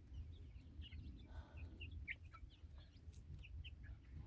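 Baby chicks peeping: many short, high peeps scattered and overlapping, some sliding up or down in pitch, faint over a low rumble.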